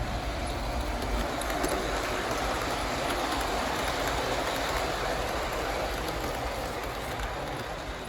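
MTH Rail King O gauge Berkshire model steam locomotive and its cars running along the layout track: a steady rolling rumble of wheels on rail that swells in the middle and then eases off.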